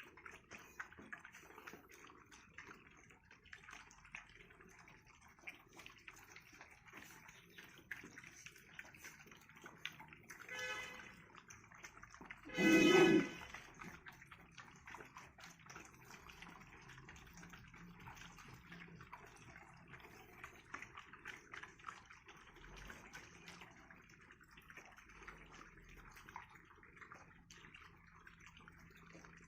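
A dog yelps twice over a faint crackling hiss: a faint yelp about ten seconds in, then a loud one of just under a second about thirteen seconds in.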